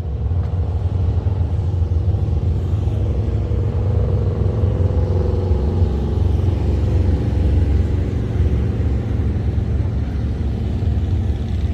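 Motorcycle engine running at steady road speed under loud wind rumble while riding.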